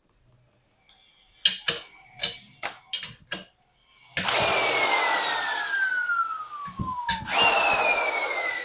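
A handful of sharp metal clinks from tools, then a power tool runs twice on the bolts, each run with a whine that falls steadily in pitch.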